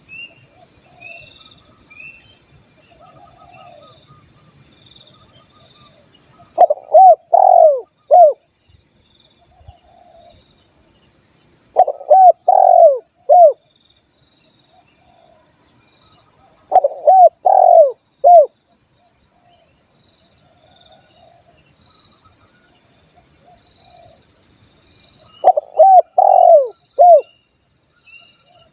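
Spotted dove (tekukur) cooing: four phrases of about four coos each, several seconds apart. A steady high insect buzz runs underneath, with faint small chirps of other birds.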